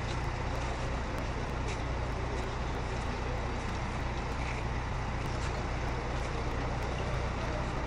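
A heavy engine running steadily, a constant low rumble with no revving.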